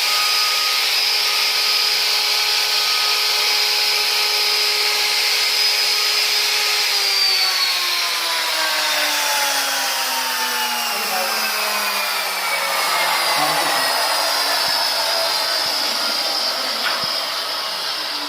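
Electric woodworking power tool motor running at a steady high pitch, then switched off about seven seconds in and winding down with a long falling whine.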